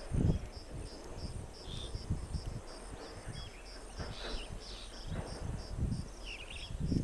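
An insect, cricket-like, chirps steadily with a regular high pulse about three times a second, joined by a few short bird calls and irregular low rumbles.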